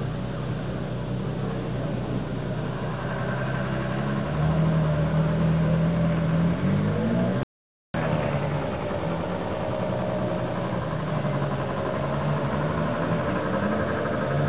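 Ferrari 458 Italia's 4.5-litre naturally aspirated V8 idling steadily, heard from behind the exhaust and over the engine bay. The pitch edges up slightly just before the sound drops out for about half a second, then the idle continues evenly.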